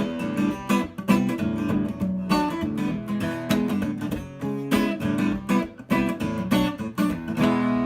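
Instrumental break of a song: acoustic guitar strumming chords in a steady rhythm, with no singing.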